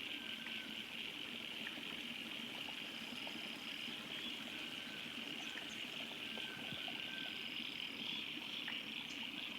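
Water running from an overflowing farm dam, with a steady, high-pitched chorus of frogs and insects over it and a few faint short calls.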